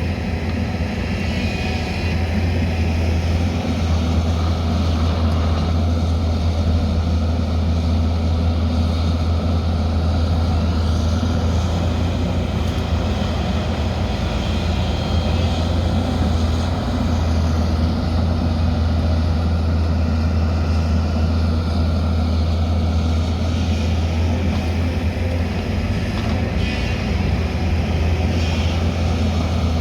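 Diesel engine of heavy earthmoving machinery running steadily: a constant low drone with no pauses.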